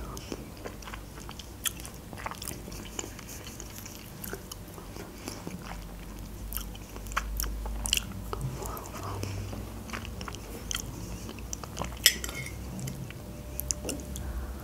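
A person chewing and biting food with many small, wet mouth clicks. The sharpest clicks come about twelve seconds in.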